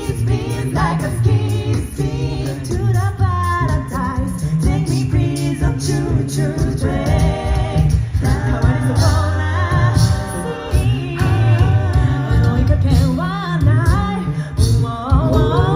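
A cappella group singing in harmony, with a sustained low sung bass line underneath and a steady beat of vocal percussion.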